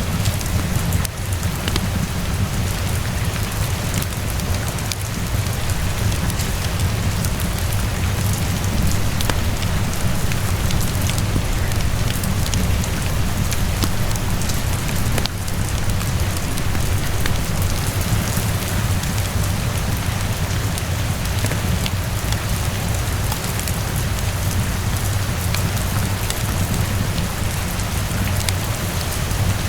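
Steady rain falling on surfaces, with a constant deep low rumble underneath and scattered sharp ticks of a crackling wood fire mixed in.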